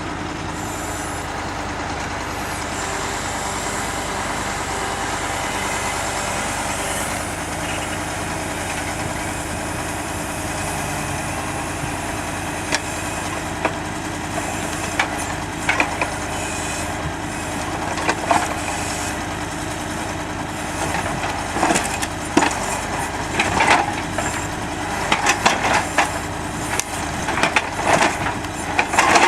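KAMAZ timber truck's diesel engine running steadily, with logs being loaded: sharp wooden knocks and clatters begin about halfway through and come thick and fast near the end.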